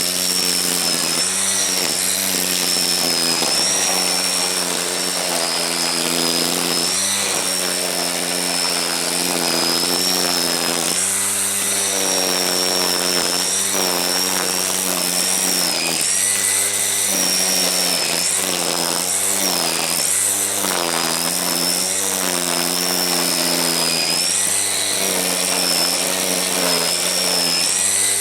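A string trimmer (weed whacker) running at speed, cutting grass down to the ground. Its pitch dips again and again as the line bogs in the growth, then picks back up.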